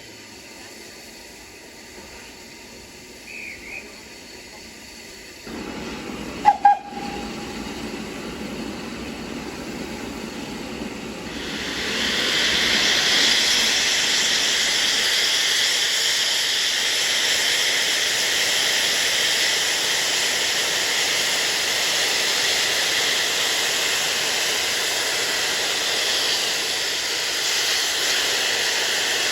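SR V 'Schools' class steam locomotive starting away: a hiss of steam rises about five seconds in, then a short double blast on the whistle. From about twelve seconds a loud, steady hiss of steam runs on as it departs.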